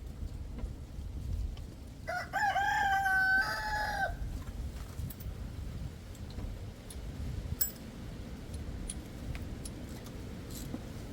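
A rooster crowing once, about two seconds in, the call lasting about two seconds with a held middle and a short final note. A single sharp click comes a few seconds later.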